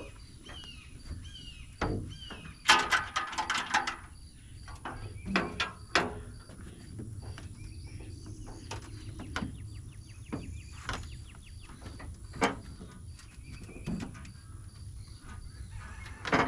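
Birds calling outdoors: a few short repeated chirps near the start and a dense burst of calls about three seconds in, over a steady low rumble. Scattered sharp knocks and clunks follow.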